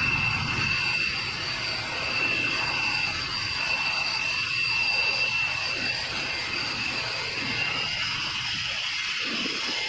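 Jet aircraft engines running: a steady rushing noise with a high, steady whine over it.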